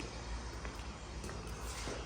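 Footsteps of someone walking through a house under construction: a few soft steps about every half second, over a low rumble on the microphone.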